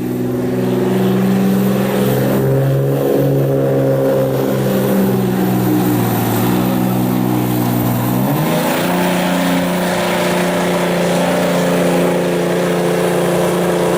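Diesel pickup truck engine running hard under load while pulling a sled. The engine note steps up in pitch a little over halfway through and then holds steady.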